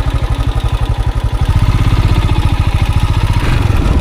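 Motorcycle engine running at low revs close by, with a steady, rapid, even putter.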